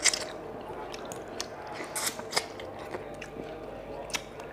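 Close-miked wet eating sounds of rice and fish curry eaten by hand: chewing with sharp lip smacks, the loudest right at the start and more about two seconds in and near the end.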